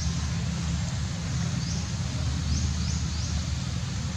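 Outdoor ambience: a steady low rumble with a few short, high chirps in the second half.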